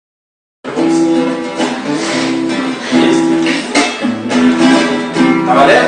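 Acoustic guitar strumming a song's intro, starting abruptly about half a second in after silence.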